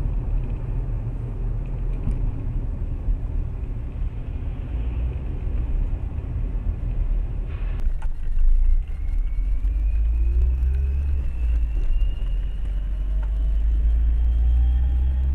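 Car driving, with a steady deep engine and road rumble. About eight seconds in there is a brief louder noise. After that a thin whine rises slowly in pitch as the engine note climbs.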